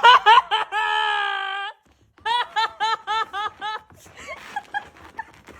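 A person laughing. It opens with a quick burst of laughs and a held high wail about a second long. After a short pause comes a run of about seven rhythmic laughs, roughly four a second, which trail off into faint breathy wheezing.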